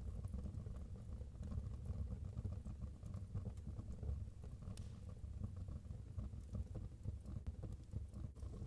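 Wood fire burning in a fireplace: a steady low rumble with scattered faint crackles and one sharper pop about five seconds in.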